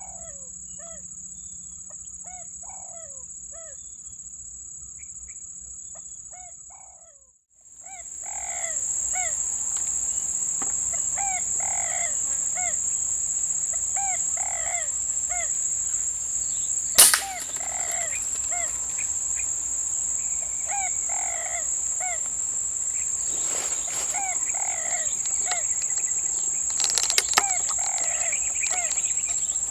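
Birds calling over and over in short falling notes, under a steady high-pitched insect drone. One sharp crack sounds about halfway through.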